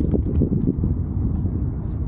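Wind buffeting the microphone of a moving bicycle rider, a loud low rumble with faint irregular ticks and a thin steady high whine.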